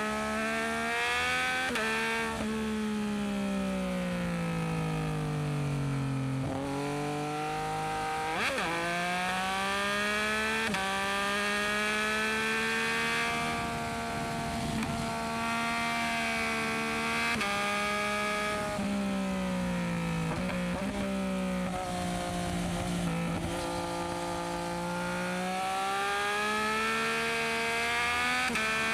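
Yamaha MT-09SP's three-cylinder engine through a Dominator aftermarket exhaust, on the move: the engine note climbs and falls with the throttle and jumps in pitch abruptly several times as gears change, over a steady rush of wind.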